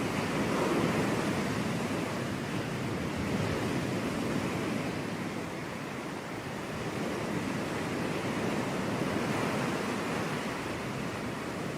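Sea waves breaking on a beach, a steady wash of surf that swells and eases slowly.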